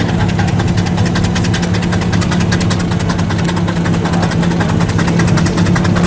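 An engine running steadily at idle, with a rapid, even ticking from its running gear.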